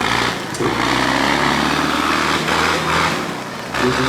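A tractor engine running close by at a steady pitch, loud with a noisy rasp on top, dipping briefly near the end before coming back up.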